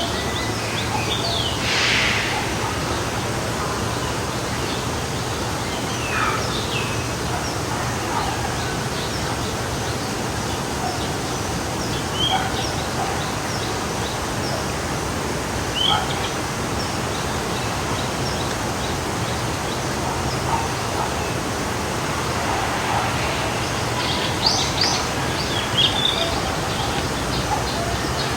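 Forest stream running steadily, with various songbirds chirping and calling over it; a loud call comes about two seconds in and a flurry of chirps near the end.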